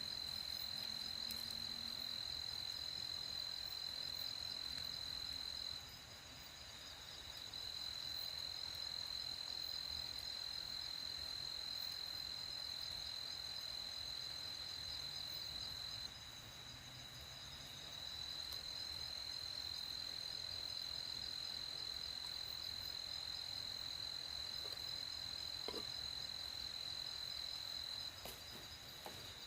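Crickets trilling in a steady, high-pitched night chorus. The loudest trill drops out briefly about six seconds in and again around sixteen seconds in, then resumes.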